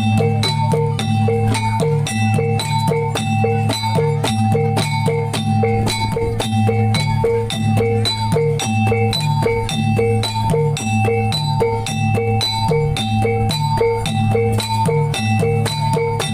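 Gamelan-style reog accompaniment: a repeating cycle of bright struck metal notes over drum strokes and a sustained low hum, at an even, steady tempo.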